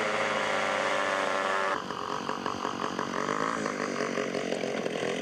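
Model airplane engine running at a steady, high pitch. About two seconds in it switches abruptly to a rougher, pulsing engine sound.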